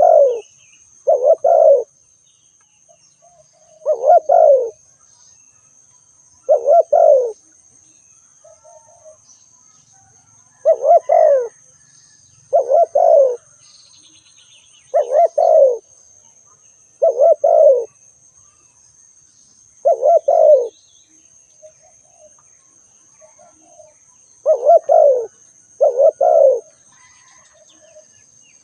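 Spotted dove cooing: short, low coo phrases repeated about every two seconds, some in close pairs.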